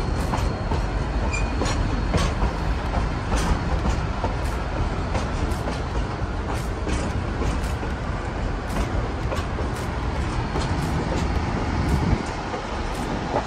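Durango & Silverton narrow-gauge train cars rolling along the track, heard from an open car: a steady rumble with irregular clicks from the wheels and a faint, thin wheel squeal now and then. The rumble eases a little near the end.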